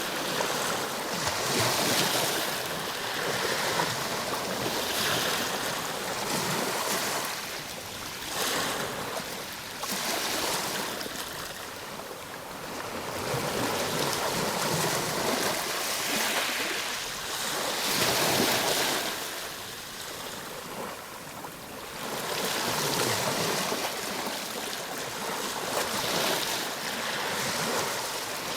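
Ocean waves breaking and washing on a shore, the surf swelling and easing every few seconds with no break.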